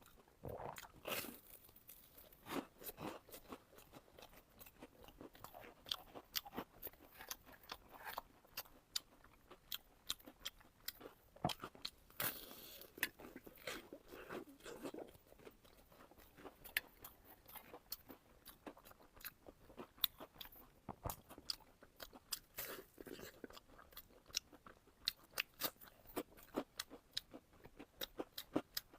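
A person biting and chewing crunchy food, close to the microphone: many irregular sharp crackles and crunches, with a few heavier bites now and then.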